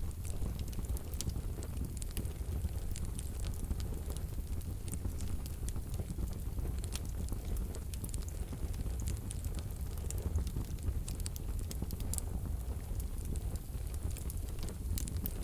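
Wood fire burning in a wood-burning stove: a steady low rumble of flames with frequent small, sharp crackles and pops.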